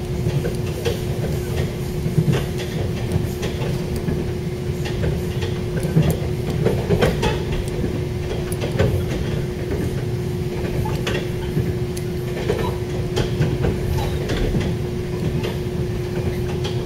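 Inside a moving passenger train: a steady running rumble with a constant hum, and irregular clicks and knocks from the wheels on the track.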